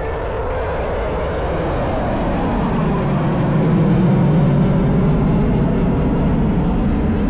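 Aircraft engines droning as a plane flies past, swelling to their loudest about four seconds in and then easing slightly.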